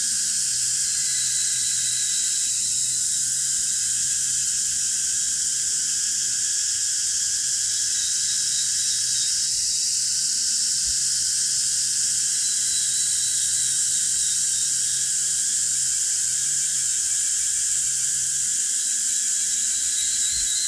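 Steady, shrill chorus of insects outdoors: a continuous high hiss with a faint intermittent trill above it, over a weak low hum.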